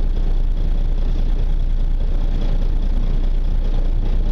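Steady low rumble of the fishing boat's engine running.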